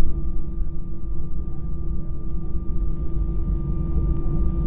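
Steady airliner cabin noise: a low engine rumble with a steady hum running through it.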